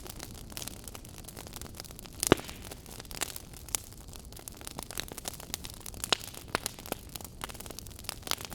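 Fireplace fire crackling: irregular sharp pops and snaps over a steady soft hiss, with one louder pop a little over two seconds in.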